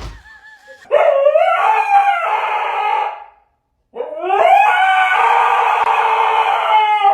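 A dog howling: two long howls, each rising in pitch at the start and then held for two to three seconds.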